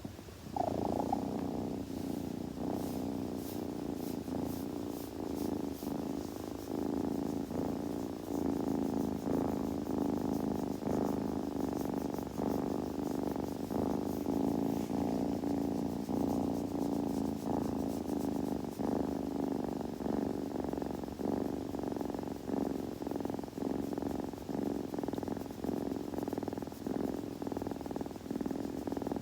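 A kitten purring steadily, in a fast even pulse.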